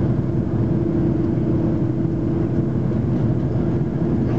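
Steady cabin noise inside an Airbus A330-300: a low engine and airflow drone with a constant hum, unchanging throughout.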